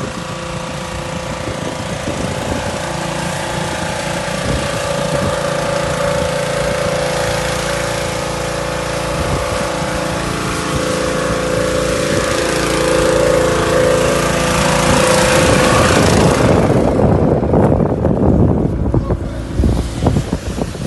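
An engine running steadily at constant speed. From about sixteen seconds in, gusty wind buffets the microphone.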